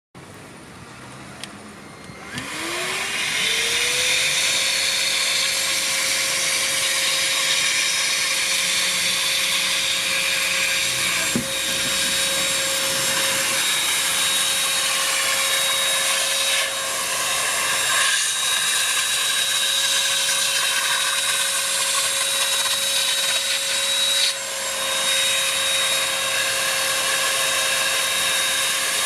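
Dibea C17 cordless handheld vacuum cleaner switched on about two seconds in: its motor spins up with a rising whine, then runs steadily with a rush of air, the pitch holding level, with a few brief changes in the airflow.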